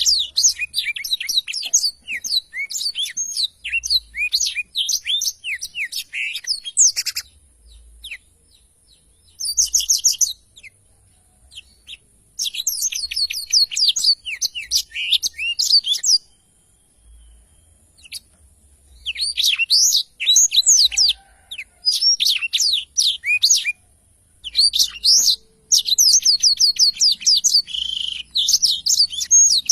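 Black-throated canary (blackthroat) singing in full song: long phrases of rapid, high twittering notes, broken by short pauses of a second or two.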